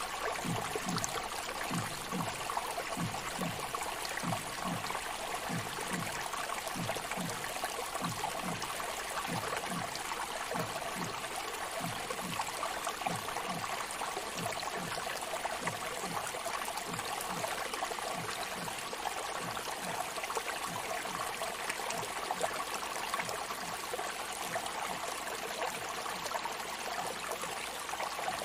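Sea waves washing continuously as a steady rush of surf. A faint low pulse repeats about twice a second underneath, fading away over the second half.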